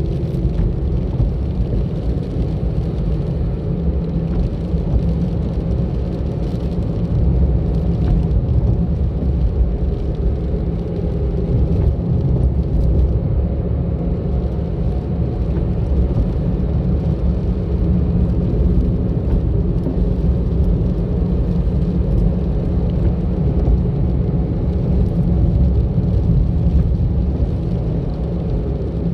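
A car driving along a road: a steady, low rumble of road and engine noise.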